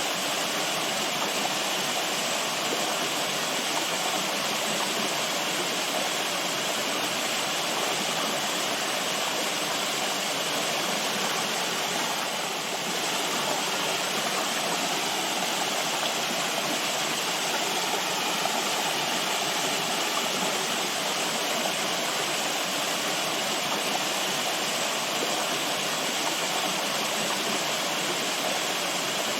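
Running water rushing steadily, a continuous natural flow with no breaks or changes.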